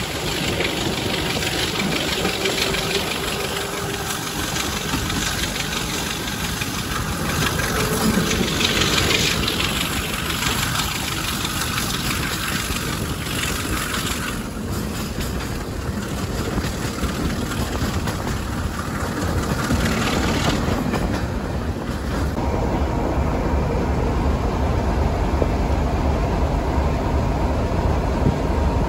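A train on a heritage railway, heard as a steady rumbling running noise. About 22 seconds in, it settles into a steadier low drone.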